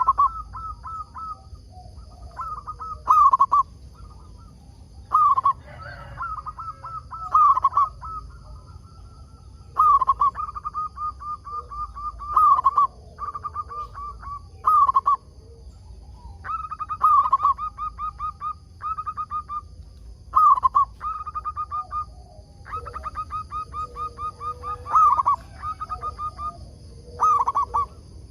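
Zebra dove (perkutut) cooing: repeated phrases of quick, stuttering coos, one every couple of seconds, each opening with a louder note.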